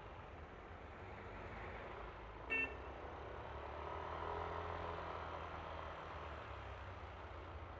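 Steady engine and road noise of a Yamaha Aerox scooter being ridden in traffic, with one short horn beep about two and a half seconds in. The noise swells a little past the middle.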